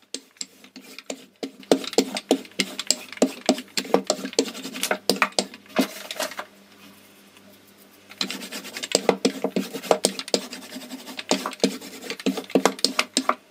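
Wooden rolling pin rolling out dough on a silicone baking mat: repeated rubbing and knocking strokes as the pin runs back and forth. The strokes stop for about a second and a half around the middle, then start again.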